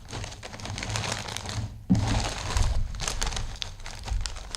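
A potato chip bag crinkling as it is handled and pulled open, with a sharper, louder rustle about two seconds in.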